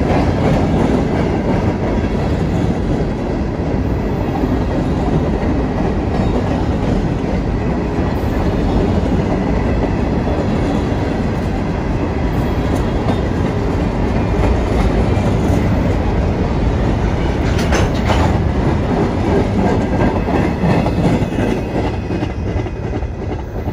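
Empty open-top hopper cars of a freight train rolling past with a steady rumble of wheels on rail. There are brief metallic clanks about two-thirds of the way through, and the sound starts to fade at the very end as the last car goes by.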